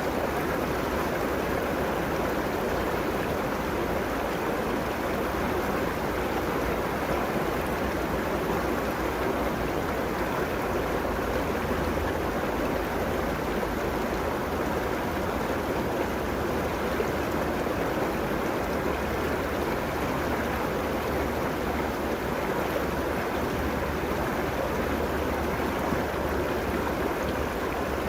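River water flowing steadily over its bed along the bank, an even rushing with no breaks.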